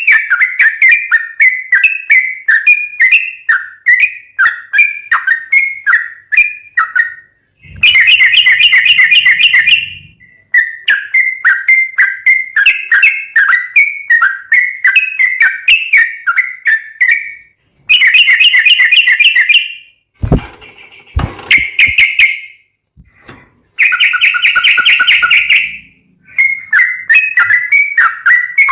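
Yellow-vented bulbul (trucukan) singing a fast run of short, slurred whistled notes, broken three times by bursts of denser, rapid chatter. The recording is very loud and clips on the chatter, and a couple of brief low thumps come about twenty seconds in.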